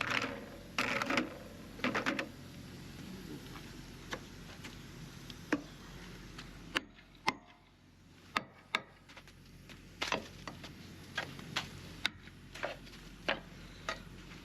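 Irregular sharp knocks and crunches from packed snow and ice being knocked off a semi-truck during a winter pre-trip inspection.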